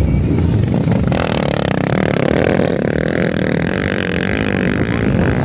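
Motocross motorcycle engines revving as the bikes race on the track. One engine comes in close about a second in and holds a high, fairly steady note.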